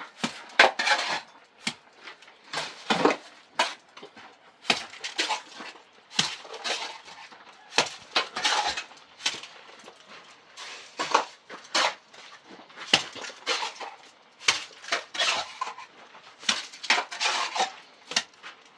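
A metal hand tool scraping and clinking against stone and mortar in short, irregular strokes, one or two a second.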